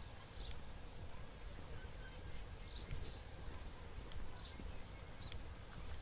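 Outdoor ambience: short, high bird chirps about once a second over a steady low rumble, with a few faint clicks.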